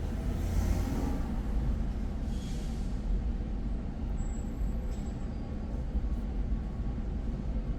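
Steady low rumble of a car driving in city traffic, with two brief hisses in the first three seconds.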